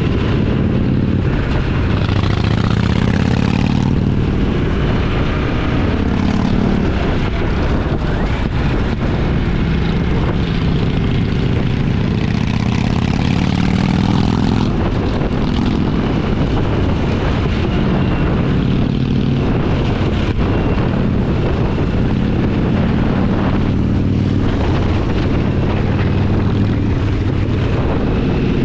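Motorcycle engine running under way, its note rising and falling a few times with the throttle, mixed with wind and road noise.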